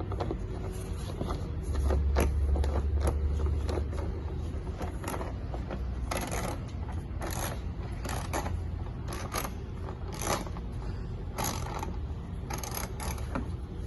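Scattered clicks, scrapes and rattles of hand work on a car's plastic front splash shield and its fasteners, with a low rumble for a couple of seconds near the start.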